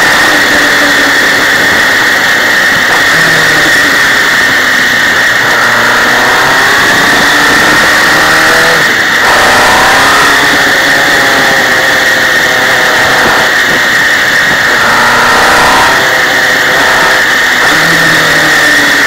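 MV Agusta sidecar outfit's engine heard from its onboard camera, pulling up through the revs and dropping back at each gear change, several times, over a steady rush of wind and road noise.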